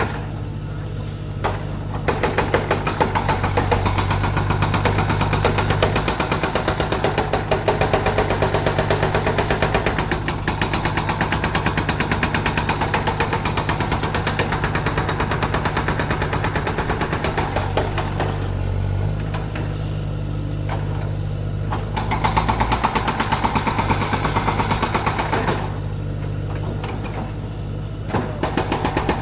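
Rapid, continuous mechanical hammering from a percussive construction tool in long bursts: one from about two seconds in to about eighteen seconds, a shorter one a few seconds later, and another starting near the end. A steady low engine hum runs under it.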